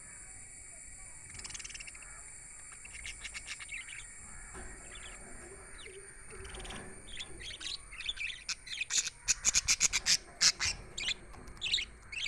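Budgerigars chirping: a few scattered calls at first, then a fast string of sharp, high chirps from about eight seconds in, loudest near the end.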